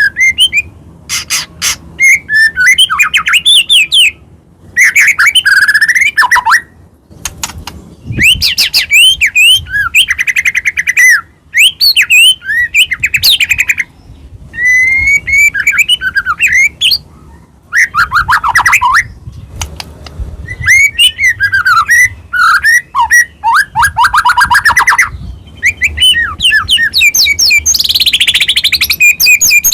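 White-rumped shama (murai batu) singing loudly in a long run of varied phrases: gliding whistles, fast trills and chattering notes, with short pauses between phrases.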